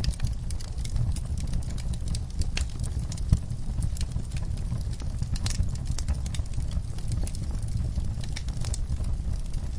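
Wood fire crackling: a steady low rumble of flames with scattered sharp pops and snaps, one louder pop about three seconds in.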